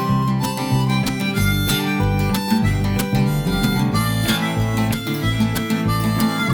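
Instrumental break of a folk-country song: harmonica playing a melody over strummed acoustic guitar and a bass line.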